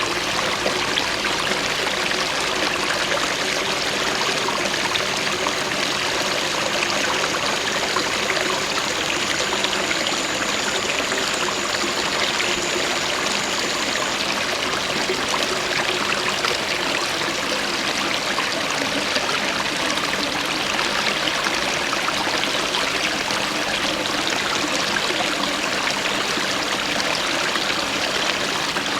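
Running water of a small stream, flowing steadily.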